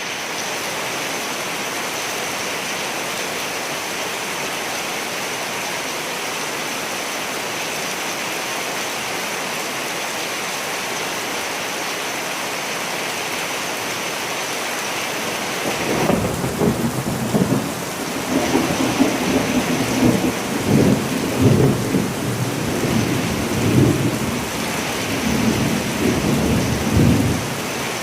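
Steady heavy rain hissing. About halfway through, a long rolling thunder rumble comes in, swelling and fading in several waves before dying away near the end.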